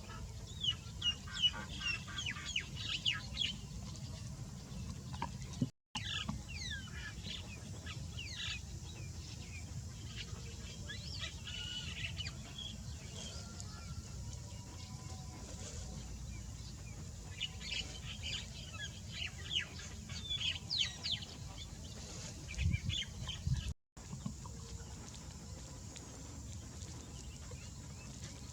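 Birds chirping and calling in quick, high bursts over a steady low rumble. The audio cuts out abruptly twice.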